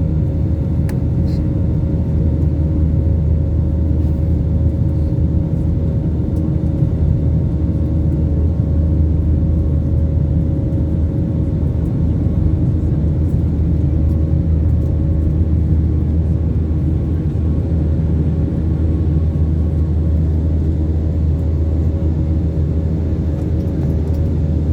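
Aircraft cabin noise: a steady, loud low rumble of the engines and airflow with a faint constant drone, heard from inside the passenger cabin during the flight after takeoff.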